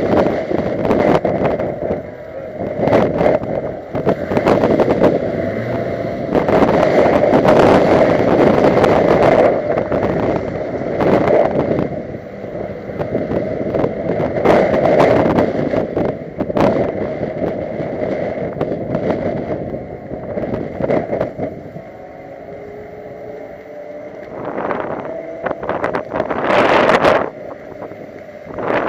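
2009 Honda Civic Si's 2.0-litre four-cylinder engine driven hard at speed, with heavy wind and road noise; the level swells and drops repeatedly as the revs climb and fall, and in a quieter stretch later on the engine note can be heard falling away.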